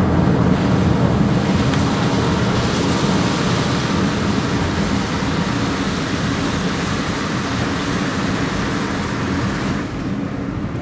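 A car driving, its steady road and engine noise heard from inside the cabin.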